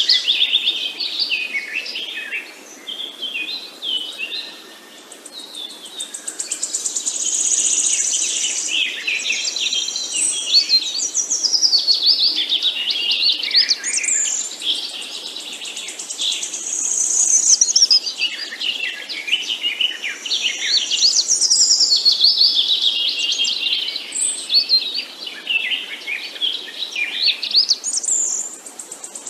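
Several songbirds singing together in a dense, continuous chorus of rapid chirps and trills.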